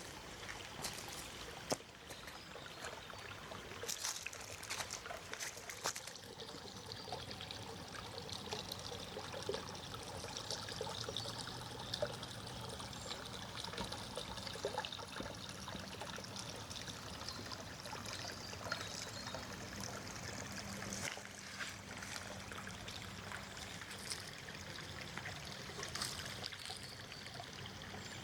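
A small stream trickling steadily, with scattered footsteps on the path, most of them in the first few seconds.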